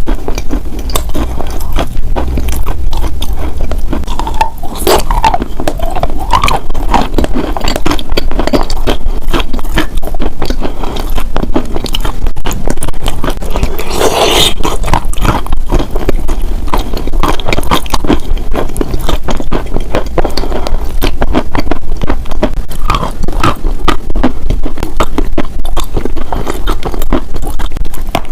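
Close-miked scratching and crackling: a dense, continuous run of small scrapes and clicks.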